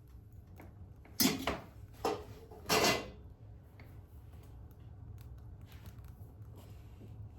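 Three short clunks and scrapes of wood and metal at a wood-burning stove, each under half a second, the loudest about a second in, followed by faint crackling ticks from the burning firewood.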